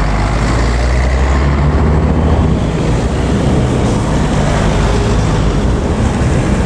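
Road traffic passing close by, with a heavy vehicle's deep engine rumble strongest for the first two seconds or so, then easing into steady traffic noise.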